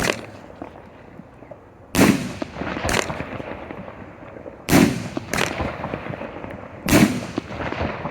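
16-shot thunder chrysanthemum firework cake firing: about six loud bangs at uneven intervals, the biggest about two, five and seven seconds in, each trailing off in a short echo. Thunder shells that can be felt in the chest.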